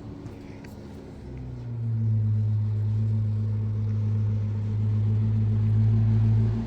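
A steady low engine or motor drone that sets in about a second in and grows louder, then holds one even pitch.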